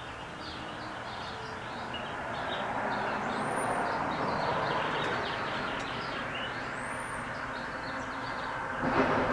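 A passing road vehicle, its noise swelling to a peak midway and fading again, over busy chirping of small birds. A brief sharp knock comes near the end.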